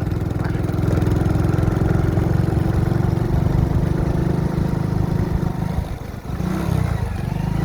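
A motor vehicle's engine running steadily, close and loud, with its rapid firing pulses audible. The sound eases briefly about six seconds in.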